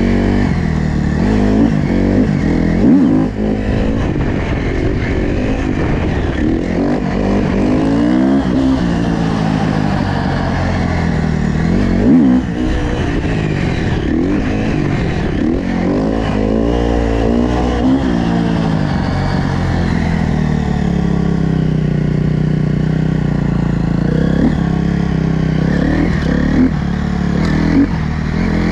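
Dirt bike engines revving over and over, the pitch rising and falling with each blip of the throttle, with a sharper, louder rev about three seconds in and again about twelve seconds in.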